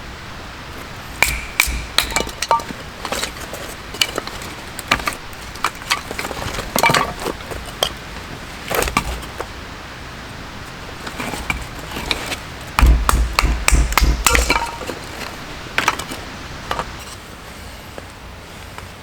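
Irregular sharp knocks, clicks and clinks of hard objects being handled, with a quick run of heavier thumps about two thirds of the way in.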